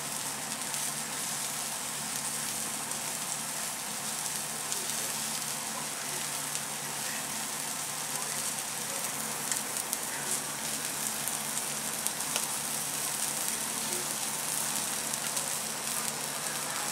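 Sweet shrimp heads sizzling steadily as they fry crisp on aluminium foil in a frying pan.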